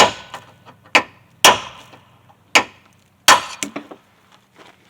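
Hammer blows on a punch, driving old rivets out of a steel truck frame: about six sharp metallic strikes at uneven intervals, each with a brief ring, stopping about a second before the end.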